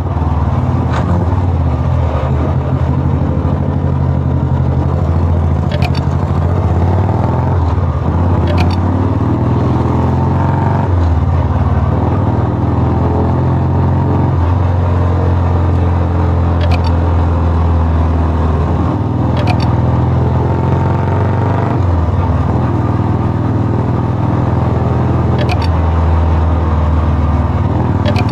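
Royal Enfield Bullet single-cylinder motorcycle engine running steadily through a very loud exhaust, its deep note rising and falling slightly every few seconds. A handful of short sharp pops sound at intervals.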